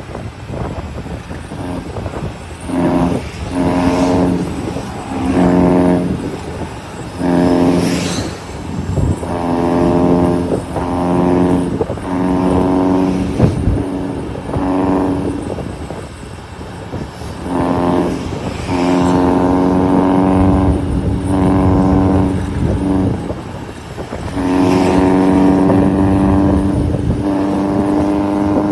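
Vehicle horns honking over traffic noise: a series of short blasts at a steady pitch, some overlapping, followed near the end by one long held blast.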